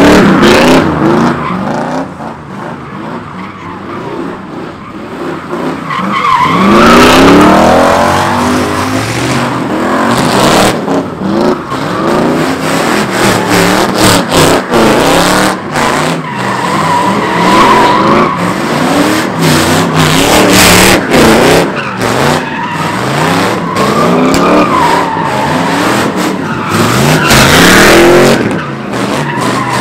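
Car engines revving up and down hard, again and again, as cars spin donuts and do burnouts, with tires squealing on the pavement.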